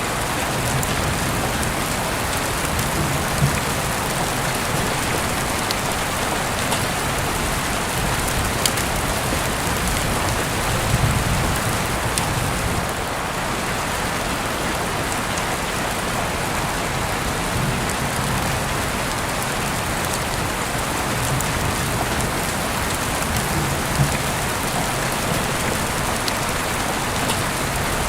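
Steady rain falling, with scattered sharp drip-like clicks and a few soft low rumbles, the strongest about eleven seconds in.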